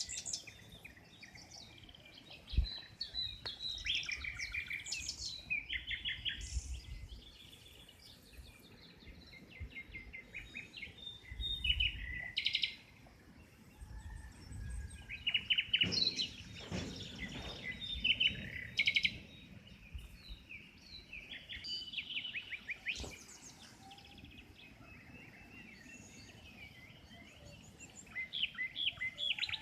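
Several songbirds singing together, with overlapping chirps and quick trilled phrases. Occasional low rumbles come and go underneath.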